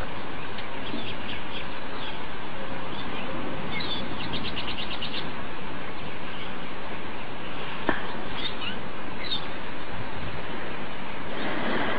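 Birds chirping, with a rapid trill of quick notes about four seconds in and a few short calls later, over a steady rushing background noise.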